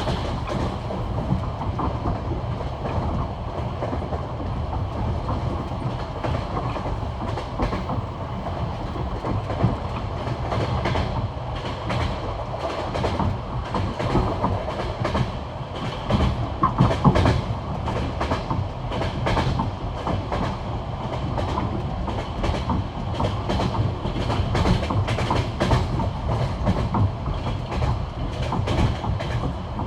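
Passenger train wheels clattering over the rail joints of old jointed (non-welded) track at high speed. The classic clickety-clack comes in repeated groups of knocks over a steady rolling rumble, with the loudest group of knocks about two-thirds of the way through.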